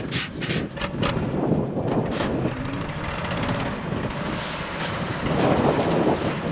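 Heavy diesel road-construction machine running with a steady low rumble, with several short sharp hisses or clatters in the first second and a broad rushing hiss that rises from about four and a half seconds in.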